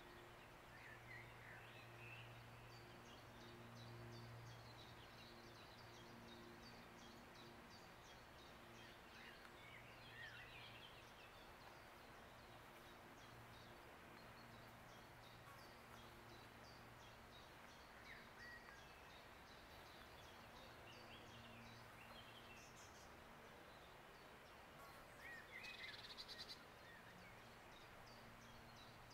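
Faint outdoor ambience: scattered short chirps of small birds over a low, steady hum, with a brief louder burst of chirping near the end.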